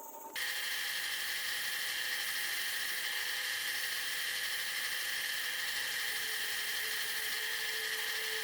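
A high-speed power tool running steadily with a high whir, cutting in abruptly about half a second in.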